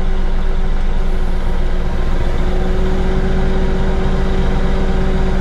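Bobcat CT5555 compact tractor's diesel engine running steadily at idle while the loader tries to lift a heavy bucket, with a steady whine coming in about two seconds in. The lift is weak at idle, a sign of the low hydraulic lift capacity that a replacement pump has only partly cured.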